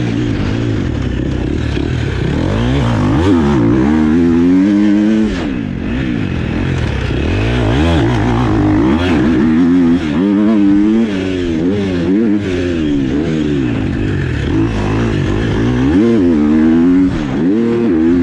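Dirt bike engine revving up and dropping back again and again as it is ridden, the pitch climbing and falling every second or two.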